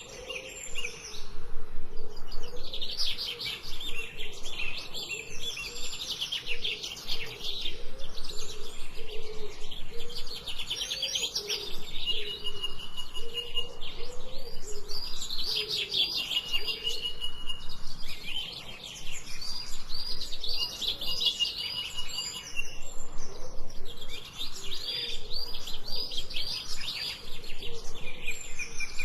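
Birds singing: rapid, repeated high chirps and trills in phrases of a second or two, over a fainter wavering lower tone.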